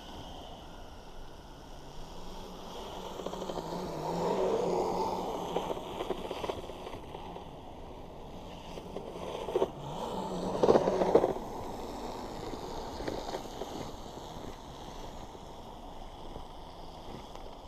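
Kyosho Blizzard RC snow tracker's dual 540 brushed motors and chain-driven tracks running over snow, the motor tone wavering with throttle. It swells louder about four seconds in and again around ten seconds, with a few sharp knocks near the second swell.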